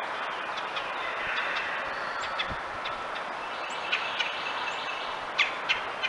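Birds chirping, short high calls scattered over a steady hiss, with two louder chirps close together near the end.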